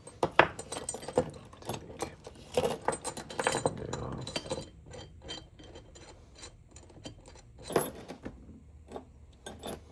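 Metal lifting hooks and chain clinking and jangling as they are handled and hooked onto an engine's lifting eyes: irregular clanks and rattles, heaviest a few seconds in.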